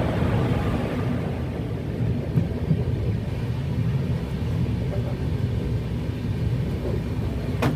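Steady low rumble of a passenger express train, with one sharp click near the end.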